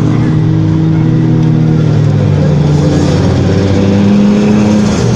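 Motorcycle engine running steadily under way, its pitch rising slightly about four seconds in.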